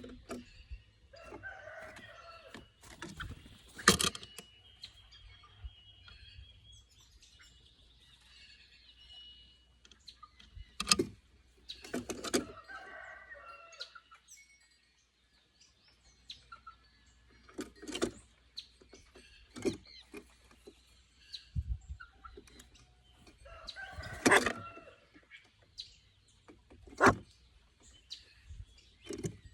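Birds calling: short, sharp calls and several longer calls of a second or two, recurring every few seconds with quiet gaps between.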